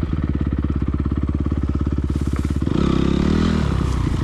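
Honda CRF250R motocross bike's single-cylinder four-stroke engine running at idle with an even, rapid pulse, then revved briefly about two and a half seconds in before dropping back to idle.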